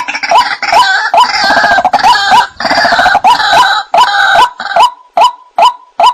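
White-breasted waterhen calling: a fast, even series of short 'wak' notes, about two or three a second, under a denser, harsher overlapping chatter of calls that drops away about four or five seconds in, leaving the repeated notes alone.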